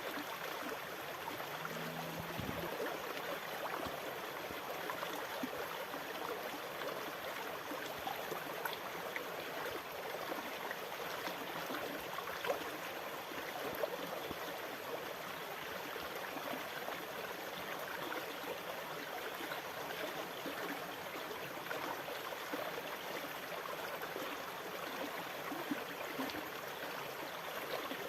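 Water running and splashing steadily, a dense crackling wash with no swells or pauses.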